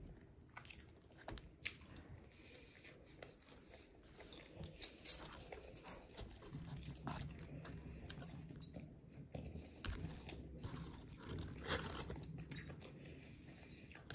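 A person chewing and biting a mouthful of McDonald's Big Mac, with many small wet mouth clicks and smacks and some crunching.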